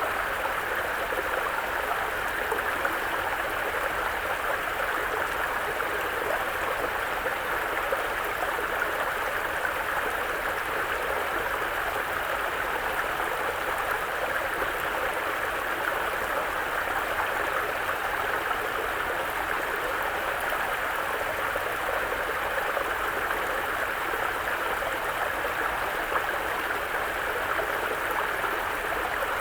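Mountain brook flowing, a steady rush of water over stones.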